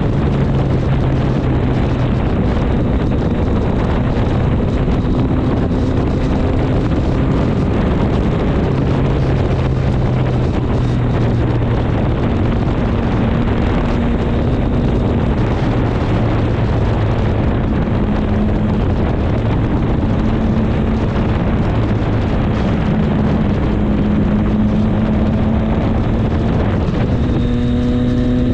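Triumph Street Triple 765 S inline three-cylinder engine running under way, its note stepping up and down as the revs change, over heavy wind rush on the microphone.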